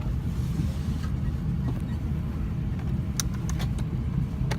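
Steady low rumble of an Airbus A320's passenger cabin before departure, with a few sharp clicks in the last second and a half.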